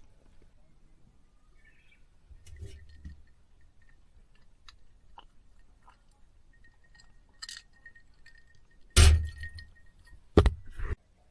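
Scattered light clicks and clinks of things being handled, then two loud sharp knocks about a second and a half apart near the end.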